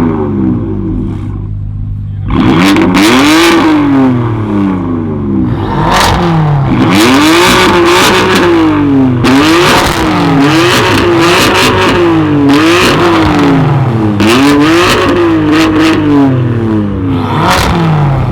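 A tuned car's engine revved hard about a dozen times in a row, starting a couple of seconds in. The pitch climbs and falls back roughly once a second, over a steady low hum.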